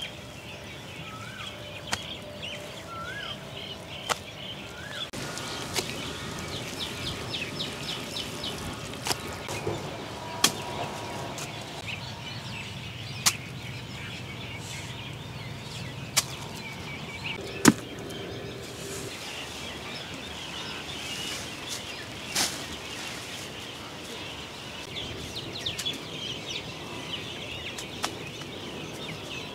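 Birds chirping and singing in open air: short rising calls repeat about once a second early on, and quick trills follow. Several sharp clicks or knocks are scattered through.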